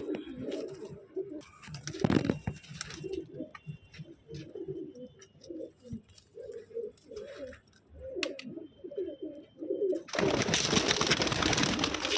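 Madrasi pigeons cooing over and over in low, rolling calls. A loud rustling burst comes about two seconds in, and a longer loud rustling stretch from about ten seconds in to the end.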